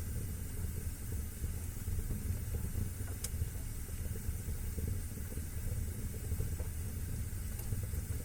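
Wood fire burning in a fireplace: a steady low rumble with a soft hiss, and a single sharp crackle about three seconds in.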